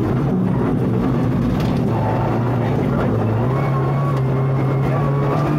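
Rally car engine running under load on a snow stage, heard from inside the cabin. A steady engine note whose pitch steps up about three and a half seconds in.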